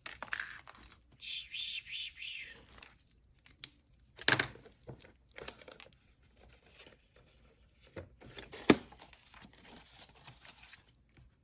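Paper bills and cash envelopes being handled, rustling and crinkling, with two sharp clicks about four and nine seconds in.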